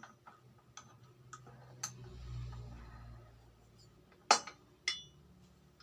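Metal tools and parts being handled at a cylinder boring setup: small ticks and clicks, a brief low hum about two seconds in, then two sharp metallic clinks, the second ringing briefly.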